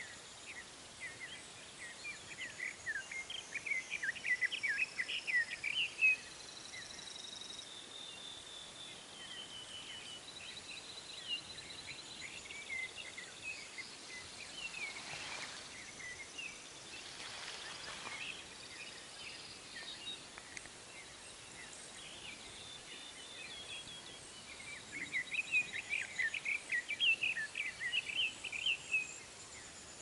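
Songbirds singing at dawn: two bursts of rapid, jumbled chirping song, one near the start and one near the end, each about five seconds long. Between them come scattered chirps and thin, high, drawn-out notes.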